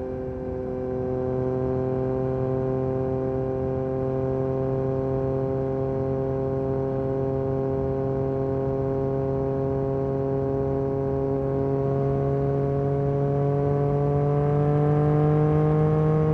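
2022 Yamaha MT-09 SP's 890 cc inline three-cylinder engine running through an Akrapovic carbon racing exhaust, cruising at a steady engine speed. Its note rises gradually in the last few seconds as the bike picks up speed.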